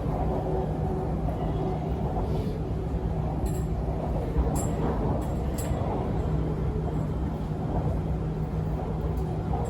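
Inside a moving MRT Purple Line metro car: steady running rumble with a low hum, and a few faint light ticks in the middle of the stretch.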